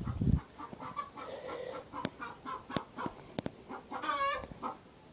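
Chickens clucking: a run of short calls, with a longer, drawn-out call about four seconds in. A few sharp clicks come between the calls.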